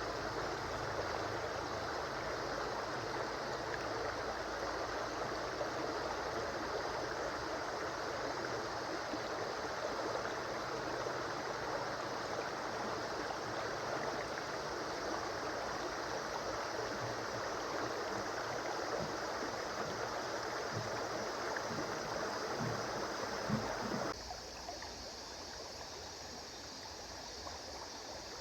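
River water flowing in a steady rush. About 24 seconds in the sound cuts abruptly to a quieter, thinner flow.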